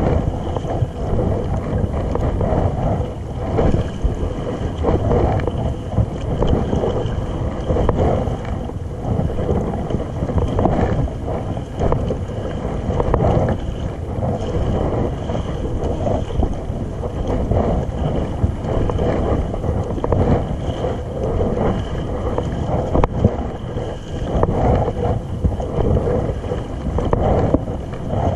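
Kayak on the sea: water sloshing and splashing against the hull, with wind rumbling on the microphone.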